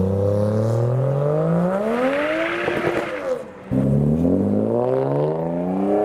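A car's engine accelerating hard as it pulls away, the revs climbing in two pulls with a short break about three and a half seconds in, as at an upshift.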